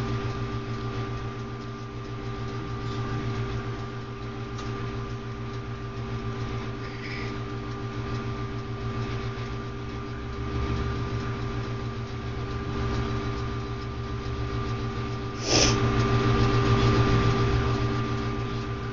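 Steady electrical hum of a running toaster oven, with a single sharp knock about three-quarters of the way through.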